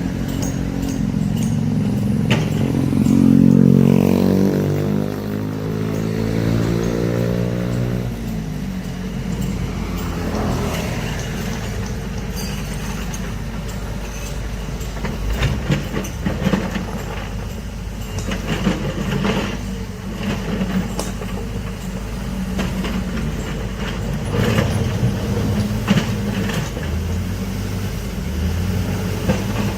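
Heavy excavator's diesel engine revving up and holding high for several seconds, then dropping back about eight seconds in. It keeps running steadily, with repeated irregular metal clanks and knocks from the working machine.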